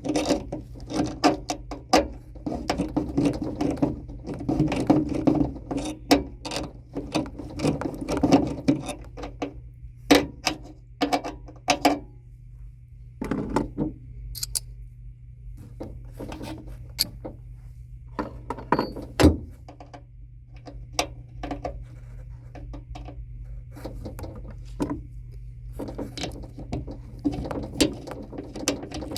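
Metal tools and parts clinking, tapping and rattling in irregular bursts during hand work on an air handler's capacitor mounting, over a steady low hum.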